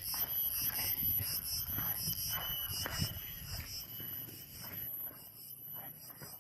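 Forest insect chorus of crickets and cicadas, several steady high-pitched tones droning together, one of which fades out about five seconds in. Scattered soft clicks and rustles sound through it.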